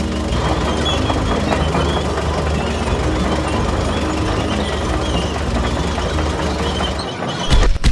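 Small engine running steadily with a knocking rumble, the sound of the DIY mini tractor. About seven seconds in it gives way abruptly to louder, choppier low thumps.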